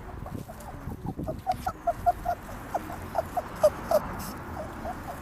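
A small animal squeaking in many short, quick notes, over a low rumbling background noise.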